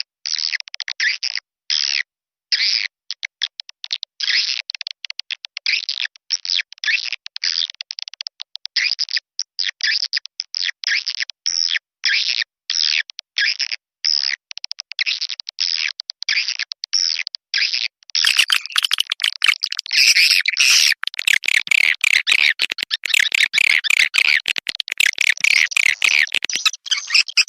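Edible-nest swiftlet calls used as a lure to draw swiftlets to a nesting house: rapid chattering chirps with short gaps. About two thirds of the way in the calls grow denser and brighter, into a continuous overlapping chatter.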